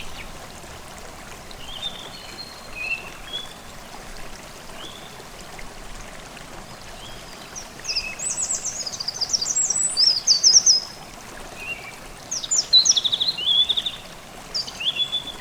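A forest stream babbling steadily, with songbirds singing quick, high chirping phrases over it, sparse at first and busier from about halfway through.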